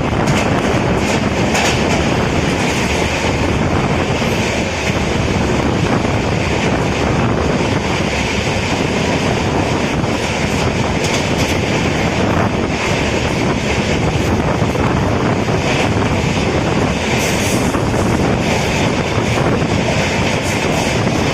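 Express passenger train running at speed, heard from on board: a steady, loud rumble and rattle of the coaches on the rails.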